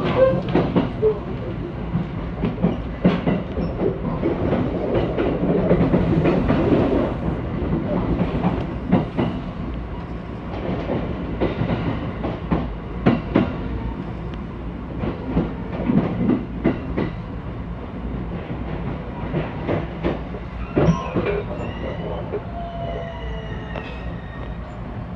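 Train running, heard from inside the passenger cabin: a steady rumble with irregular clicks and knocks from the wheels over rail joints. Near the end, thin high squeals come in as it slows alongside a station platform.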